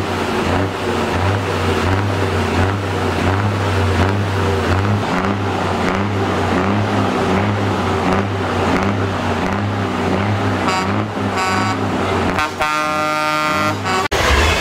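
Truck diesel engine running steadily, with two short horn toots near the eleven-second mark and a longer horn blast of about a second and a half near the end.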